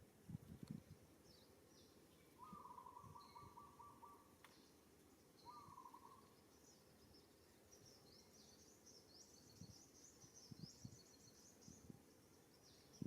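Faint outdoor ambience with bird calls: a trilled call a couple of seconds in, a shorter one soon after, then a run of quick high chirps through the second half.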